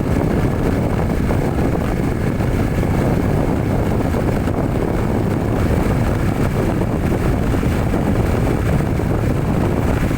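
Steady vehicle running noise: engine and road rumble, strongest in the low end, with no change in pitch.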